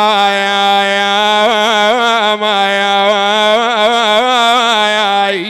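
A male lament reciter's voice holding one long sung note in a Shia Arabic nai lament, wavering in quick melismatic ornaments in the middle of the note. The note dips and stops near the end.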